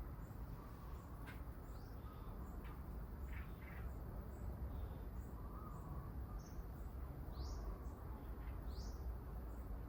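Small birds chirping: scattered short, high calls, two louder upward-sweeping chirps near the end, over a steady low background rumble.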